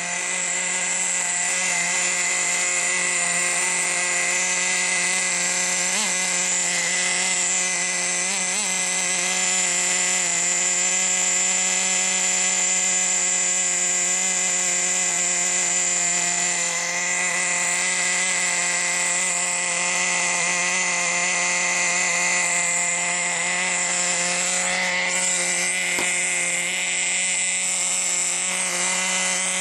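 Small two-stroke nitro glow engine of a Team Associated GT2 RC truck running steadily, a buzzing tone held at one pitch with no revving.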